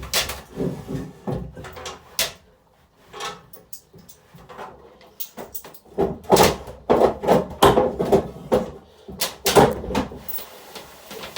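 Rummaging for coins: a run of short clicks and knocks, sparse with a quiet spell in the first half and busier in the second half.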